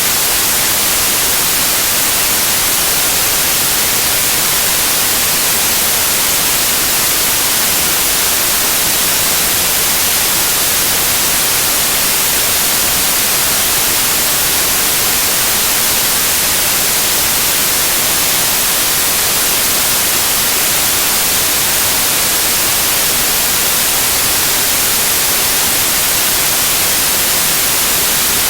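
Steady, loud white noise: an even, unchanging hiss.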